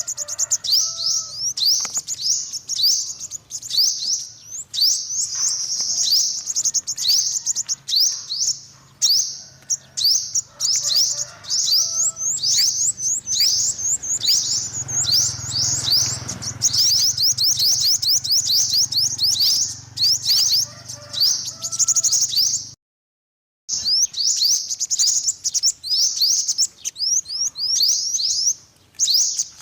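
Yellow-bellied sunbird twittering: a fast, unbroken run of sharp, high, down-slurred chirps, several each second. The sound cuts out completely for under a second about three quarters of the way through, then resumes.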